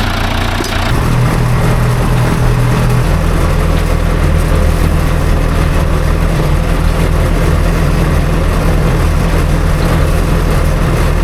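Farm tractor engine running steadily while pulling a wheel hay rake down a strip, its revs picking up about a second in and settling into a steady working pitch.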